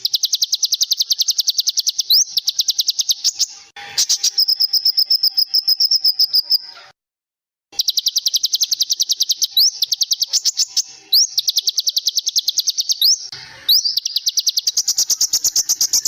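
Songbird singing rapid-fire trills of sharp high notes, about ten a second, in several runs separated by brief breaks, with quick rising whistles dropped in now and then. This is the dense, fast 'tembakan' style of song used in masteran recordings to teach songbirds.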